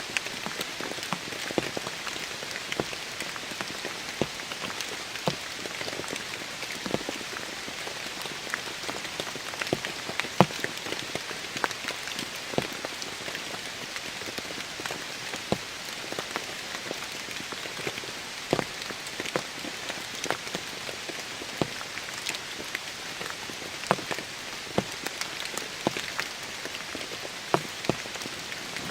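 Heavy rain falling steadily, with many sharp clicks scattered irregularly through it.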